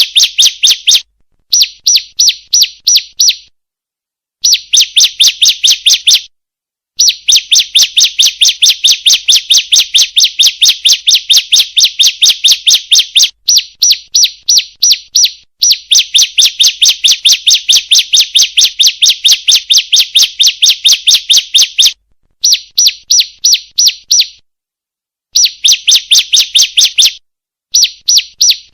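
Female ciblek (prinia) giving rapid, evenly repeated sharp chip calls, about five a second, in runs of one to six seconds with short pauses between. This is a recorded call used as a lure to set a kept bird calling.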